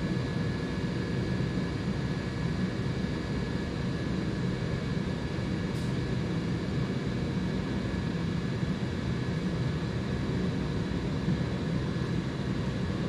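Shop air compressor running steadily, a continuous mechanical hum with a few steady whining tones over it; moderately loud, though not as loud as most air compressors.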